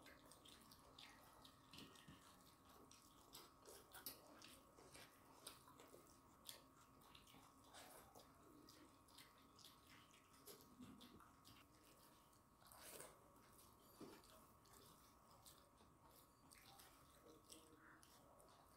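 Faint eating sounds: wet chewing and small irregular mouth clicks and smacks as rice and chicken curry are eaten by hand.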